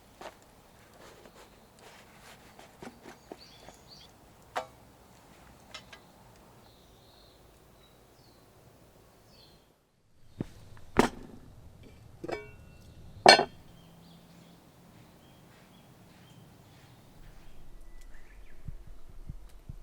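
Scattered knocks and clicks of objects being handled, then three louder knocks about eleven to thirteen seconds in. One of them rings briefly like metal. Faint high chirps sound throughout.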